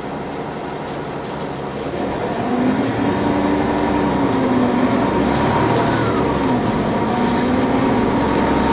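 NovaBus TL-40102A low-floor city bus pulling away. Its engine gets louder about two seconds in as the bus accelerates, and the engine drone rises, dips and rises again as it goes up through the gears. A steady high whine runs under it.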